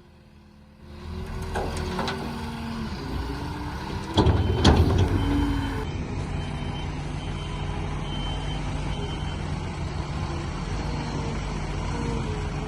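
Diesel telehandler loader running, with a reversing alarm beeping on and off and a loud clunk about four seconds in.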